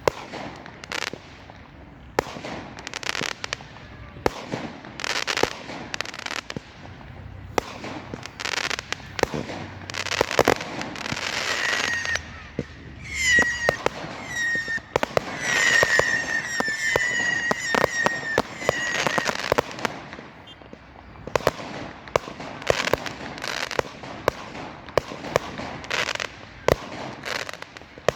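Fireworks display going off: a steady run of sharp bangs and cracks, with a stretch of high, wavering whistles about halfway through.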